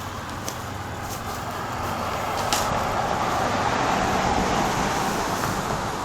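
Road noise from a car, an even rush of tyre and engine sound that swells to a peak about four seconds in and then fades, as a car goes by.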